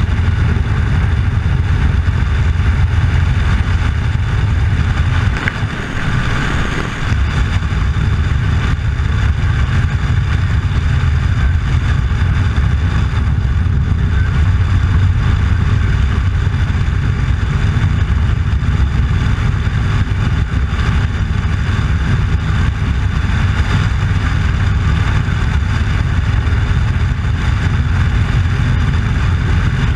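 Motorcycle running steadily at road speed, easing off briefly about six seconds in.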